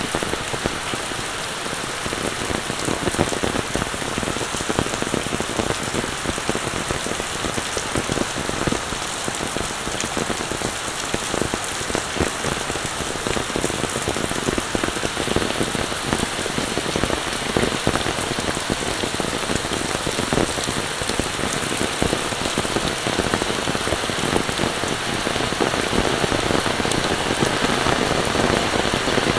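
Steady rain falling: a dense, even hiss of countless drops striking surfaces, unchanging throughout.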